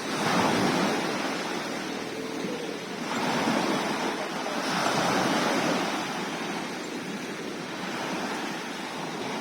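Sea waves washing in, with two surges (one at the start and a longer one about three to five seconds in) that settle into a steady wash, and some wind on the microphone.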